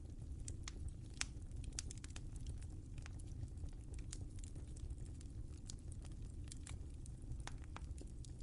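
Wood fire crackling in a fireplace: irregular sharp pops and snaps, one louder about a second in, over a steady low rumble of the burning logs.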